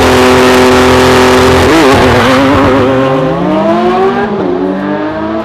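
Sports car engine revving, laid in as a sound effect: held at a steady high rev, wavering about two seconds in, then climbing in pitch near the four-second mark before easing off.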